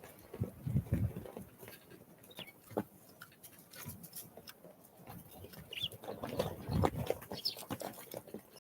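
Small wild birds at a winter feeder: scattered sharp taps and knocks from pecking and landing, two clusters of low thumps, and a few brief high chirps.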